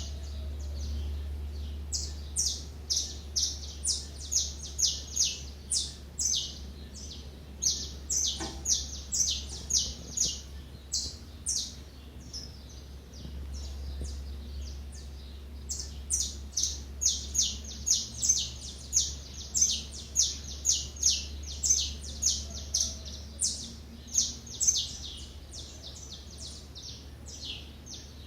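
Small wild birds chirping in quick bouts of short, sharp notes, several a second, with brief lulls, over a steady low hum.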